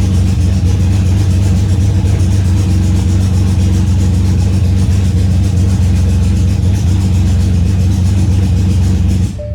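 Freshly swapped-in BMW N52 inline-six engine running steadily in an E90, then switched off abruptly near the end. Its running didn't sound right, which the mechanic puts down to the Valvetronic eccentric shaft or something like it.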